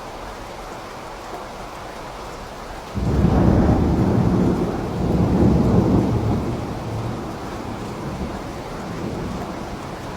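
Steady rain, with a roll of thunder breaking in suddenly about three seconds in. The thunder is loudest for a few seconds, then rumbles away slowly under the rain.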